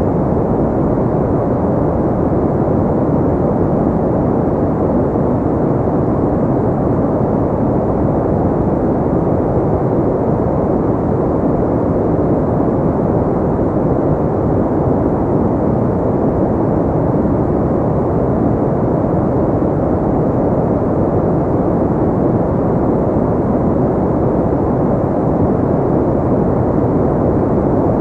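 Steady, unchanging synthetic pink noise. Most of its sound sits low with little treble, so it comes across as a dull, muffled hiss.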